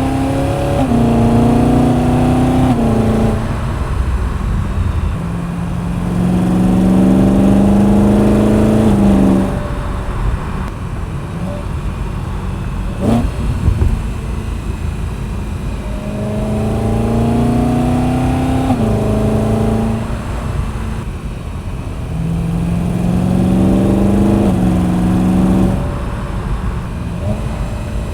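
BMW E92 M3 V8 with an M Performance muffler, pulling moderately through the gears: four times the engine note rises and drops back at each upshift, with steadier cruising between. There is a short sharp sound about halfway through.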